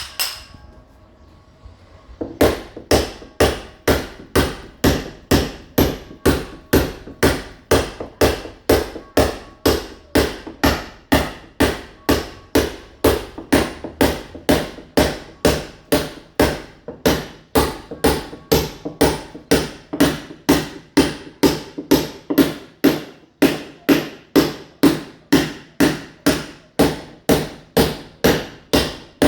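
Hammer blows on a masonry wall, a mason chipping the wall surface to key it for ceramic tile: a single knock, then from about two seconds in a steady run of sharp strikes at about two a second.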